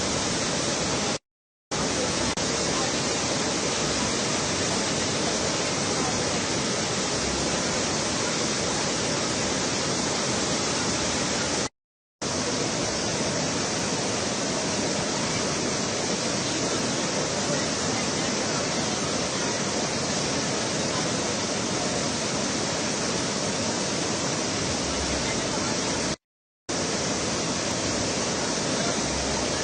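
A swollen river in flood, its water rushing in a loud, steady roar. The roar is broken by three brief cuts to silence.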